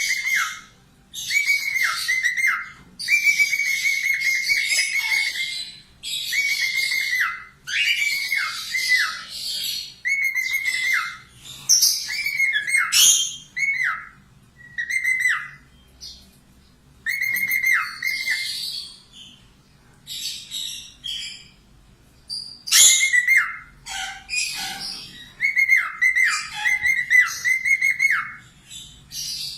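Pet parrot singing in phrases: clear whistled notes held at one pitch that each drop off sharply at the end, mixed with scratchy chatter. Short pauses fall between phrases.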